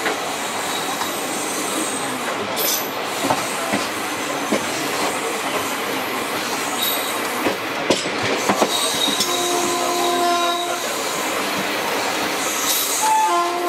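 Running noise of a passenger train heard from an open vestibule at the coupling between two coaches: a loud, steady rush of wheels on rail with occasional sharp clicks. A train horn sounds for about a second and a half from about nine seconds in, and starts again near the end.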